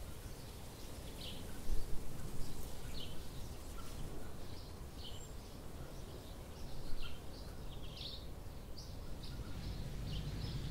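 Small birds chirping, short high calls about once a second, over steady low background noise.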